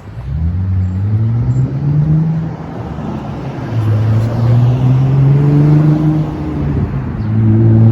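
A car's engine running close by, rising in pitch as it pulls away at the start, then running steadily with a couple of brief dips and recoveries.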